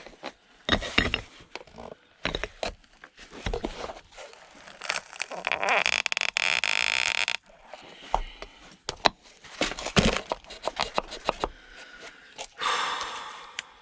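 A nailed-shut wooden box being pried and knocked open: scattered knocks and scrapes, with a long creak of wood and nail being levered apart about six seconds in and a shorter one near the end.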